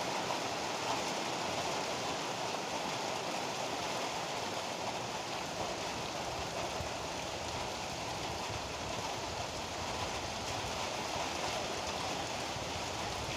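Heavy rain falling in a steady downpour, an even hiss without letup.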